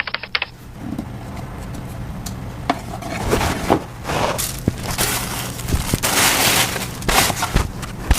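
Packaging materials being handled close up while a phone is packed: irregular crinkling and rustling with scattered clicks and small knocks, and a longer continuous rustle about five seconds in.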